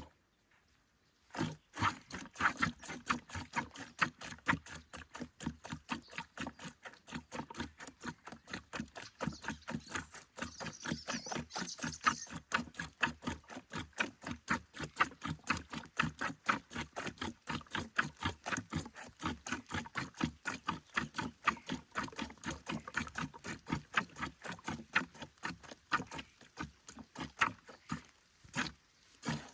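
Cow being milked by hand: milk squirting in a quick, even rhythm of short strokes. It begins about a second and a half in and stops shortly before the end.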